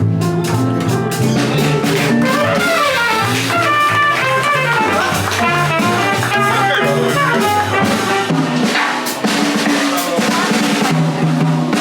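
Live jazz combo playing: a drum kit with rimshots and cymbals over a bass line, with a fast melodic run of notes climbing and falling in the middle.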